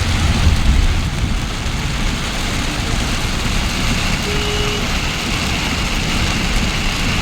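Steady rain falling, a continuous hiss over a low rumble, with a brief faint tone about four seconds in.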